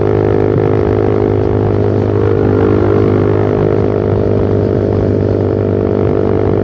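Suzuki Satria F150 Fi's single-cylinder four-stroke engine running at steady revs through a short Pro Liner aftermarket muffler with its dB killer removed. It makes a loud, even, low-pitched drone.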